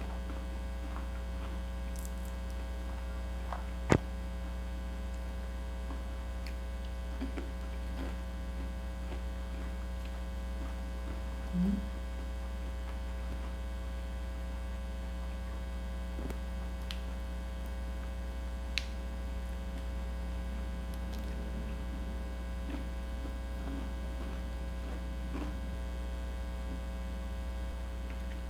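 Steady electrical mains hum, with faint scattered clicks of eating crispy chicharon. One sharper click comes about four seconds in, and a short hummed "mm" near the middle.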